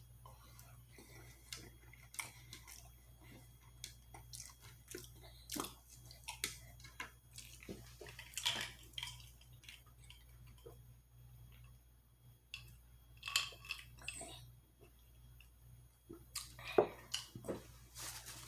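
Close-miked chewing of soft, not-crispy French fries: irregular wet mouth clicks and smacks, with a few louder bursts of chewing.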